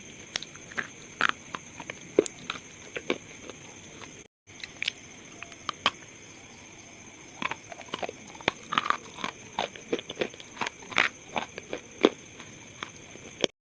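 Pieces of slate being crunched and crumbled, giving irregular sharp crackly snaps, with a brief dead-silent cut a little past four seconds.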